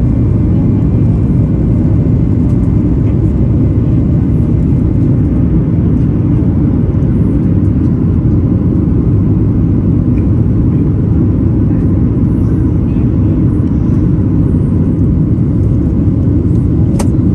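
Steady low rumble of a Boeing 737 MAX 8's CFM LEAP-1B engines and airflow, heard inside the cabin, with a faint click near the end.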